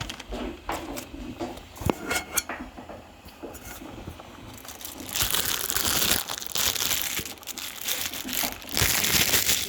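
Crinkling and rustling of a plastic bag of soy wax flakes being handled while wax is scooped out, with a few scattered clicks and knocks in the first seconds. The crinkling gets louder and denser about halfway through.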